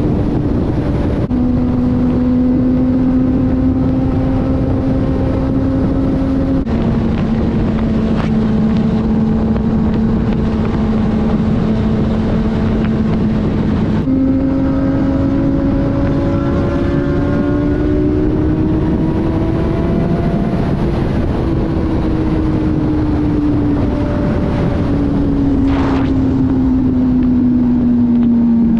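Inline-four sport bike engine running at highway speed under heavy wind rush. Its steady drone steps down in pitch twice in the first seven seconds as the rider shifts up, jumps up about fourteen seconds in and climbs, then slowly falls away toward the end.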